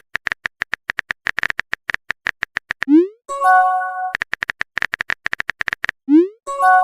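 Rapid synthetic typing clicks, about seven a second, broken twice by a short rising swoop and then a chime of several steady tones: a chat app's typing and message-sent sound effects.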